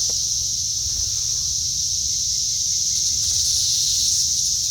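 Chorus of cicadas buzzing steadily at a high pitch, with a steady low hum underneath.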